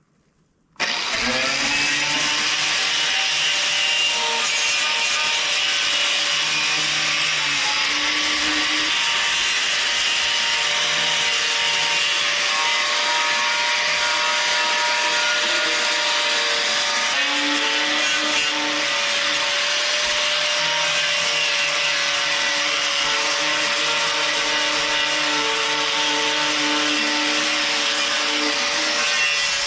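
Power-tool wire wheel starting about a second in and running steadily against a metal part, a loud whir with grinding scrub. Its held tones step in pitch about halfway through as the load changes.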